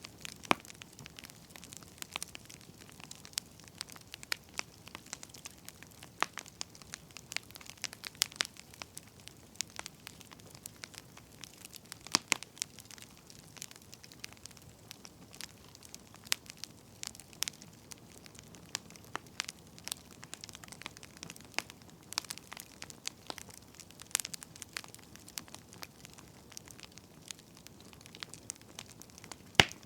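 Wood fire crackling: frequent irregular sharp pops and snaps over a faint steady hiss.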